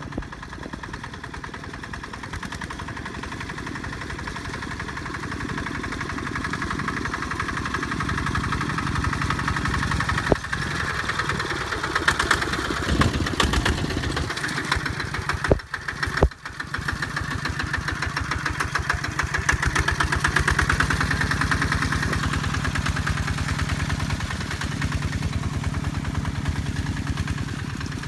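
Kubota tractor's diesel engine running steadily under load in a rice paddy. It grows louder over the first ten seconds or so, with a sharp knock about ten seconds in and a brief dip with a couple of knocks around sixteen seconds.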